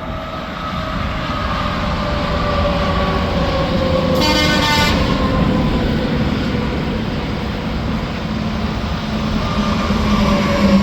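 Heavy interstate traffic passing at highway speed: tyre and engine noise whose pitch drops as each vehicle goes by. About four seconds in, a single short horn blast of under a second sounds from a passing vehicle.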